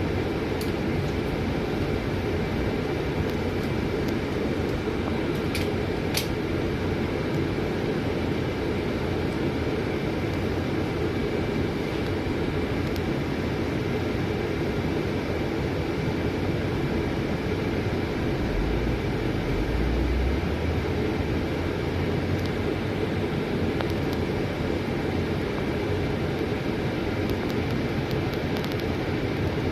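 Scania city bus in motion, heard from inside the cabin: a steady low engine and road rumble with a thin high whine running through it. A short click sounds about six seconds in, and the rumble swells slightly about twenty seconds in.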